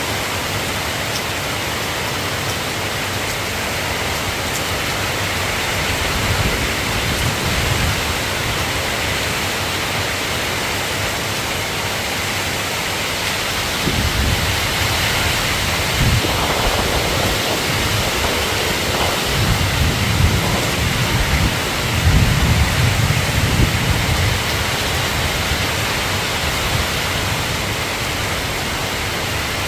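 Steady rain falling, with low thunder rumbling several times through the middle, loudest a little past halfway.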